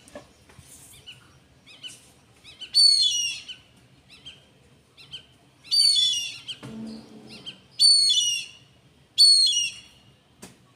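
A bird calling: four loud, high calls, each about half a second to a second long and falling slightly in pitch, spaced a couple of seconds apart, with fainter chirps between them.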